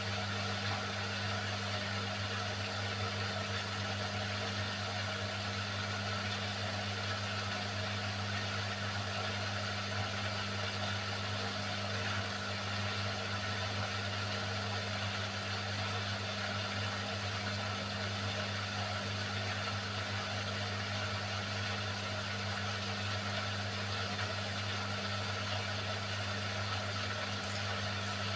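Beko WMY81283LMB2 washing machine running steadily during its hand wash programme: an even hum with a constant low drone that does not change.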